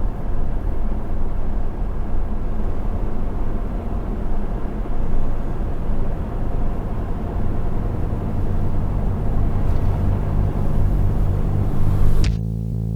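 Steady road and engine noise of a Citroën heard from inside the cabin while driving. Music comes in near the end.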